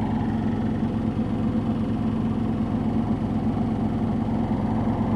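Samsung Ecobubble washing machine with a digital inverter motor, spinning at full speed in its 1400 rpm final spin: a steady, even hum with a strong low tone.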